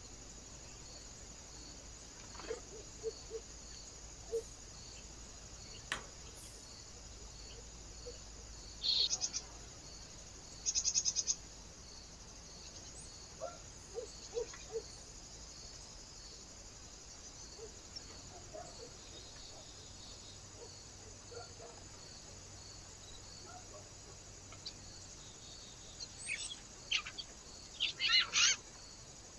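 Birds calling: scattered short chirps, a few low triple notes and two brief rapid high trills, with a louder cluster of chirps near the end, over a steady background hiss.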